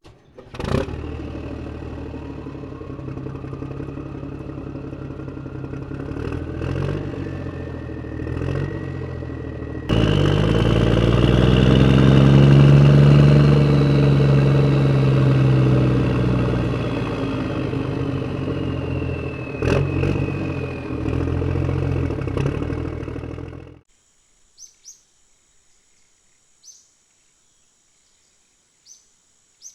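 Motor of a miniature DIY tractor running with a clattering hum. About a third of the way in it gets louder, and its pitch rises and then falls. It cuts off abruptly, leaving faint insect chirps.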